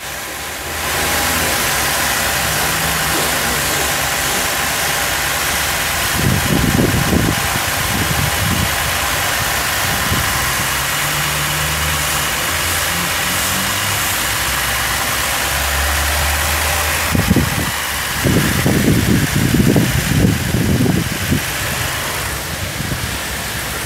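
Holden Commodore V6 engine idling steadily, with a hiss over the top. Uneven low rumbles hit the microphone about six seconds in and again for a few seconds from about seventeen seconds in.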